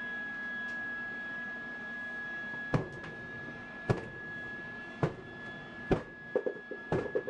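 A steady high-pitched electrical whine over a low hum. From about three seconds in, sharp clicks come about once a second, then quicker and in clusters near the end.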